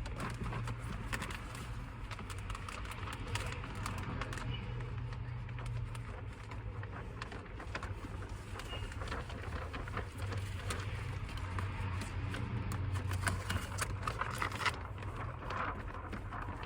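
Scattered small clicks, taps and rustles of handling over a steady low hum.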